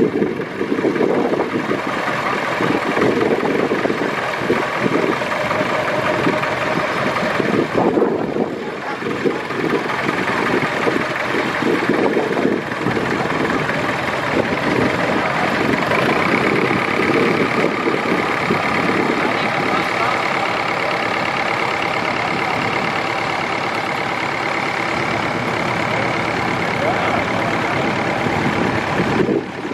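Antique tractor engines running slowly at low throttle, a steady chugging pulse.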